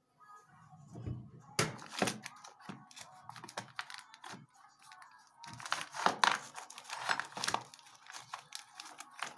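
Irregular light clicks, scrapes and crackles of small hand work, thickest about two seconds in and again in the second half, over faint background music.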